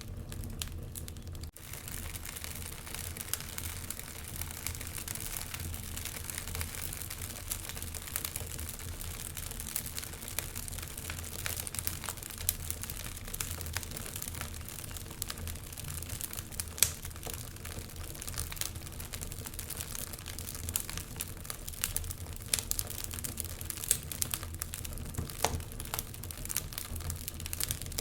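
Wood fire crackling in a fireplace: a steady stream of irregular sharp pops and snaps over a low, even rumble, with a brief dropout about a second and a half in.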